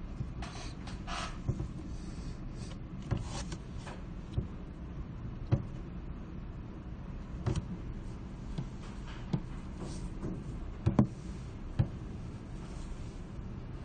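Library room ambience: a steady low rumble with scattered soft knocks and clicks, about one every second or two, and brief rustling in the first few seconds.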